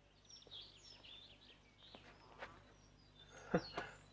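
Faint birdsong of short chirps and whistles, with a few soft knocks in between, the loudest a little before the end.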